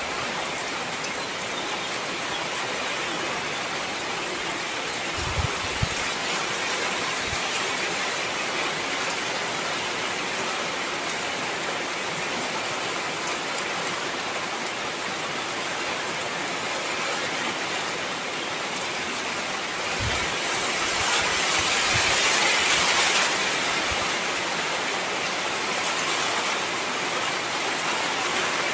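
Heavy rain falling steadily, swelling louder for a few seconds about two-thirds through, with a few low thuds of drops striking a surface.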